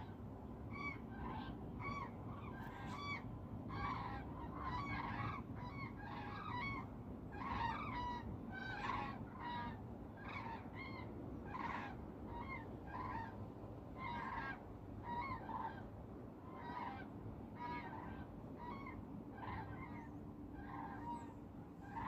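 A flock of geese honking, with many short calls following one another irregularly and overlapping, over a steady low rumble.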